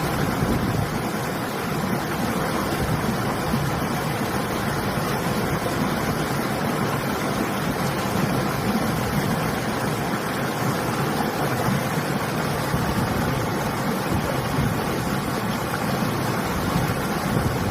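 River water flowing with a steady rushing, mixed with winter wind.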